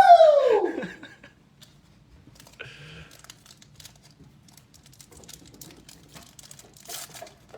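A man's loud "woo!" cheer falling in pitch at the start, then light crinkling and tearing of a trading-card pack wrapper and cards being handled, in short scattered rustles and clicks.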